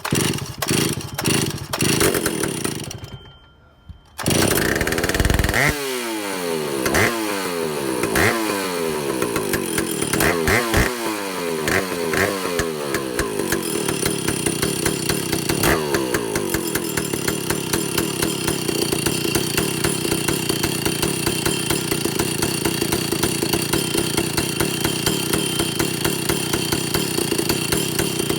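Vintage Stihl two-stroke chainsaw being pull-started. It fires in uneven bursts, goes quiet briefly, then catches about four seconds in. It is revved several times, its pitch falling after each rev, then settles into a steady idle. This is a test run with its air leaks fixed and fresh carburetor settings.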